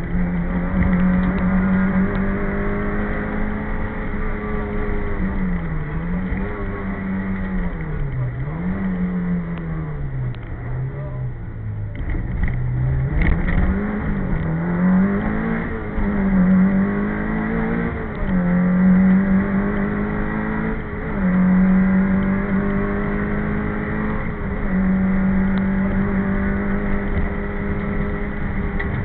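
Citroën AX Sport's four-cylinder engine heard from inside the car at racing speed, held at high revs, then dropping away in the middle as the car slows and climbing back in quick rises and falls through the gears before holding high again. A steady road and tyre rumble runs underneath.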